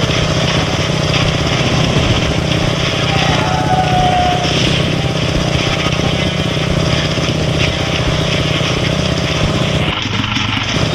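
Motorcycle engine running steadily while riding, with a rumbling rush of wind and road noise over it. Near the end the high hiss drops away abruptly.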